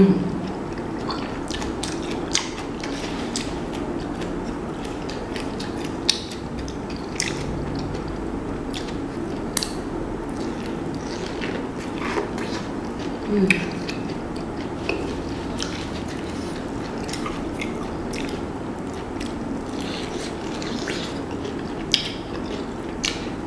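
Close-up eating sounds: chewing and wet lip smacks with scattered short clicks as boiled shrimp and corn on the cob are bitten and chewed, over a steady low hum.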